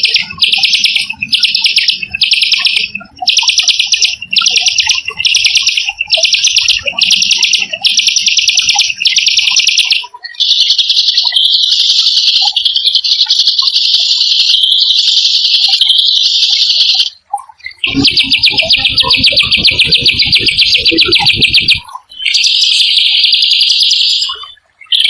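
Small songbird singing fast, harsh rolling trills. At first these come as short bursts with brief gaps between them; from about ten seconds in they run as long, unbroken rolls. A low buzzing rattle sounds underneath for a few seconds past the middle.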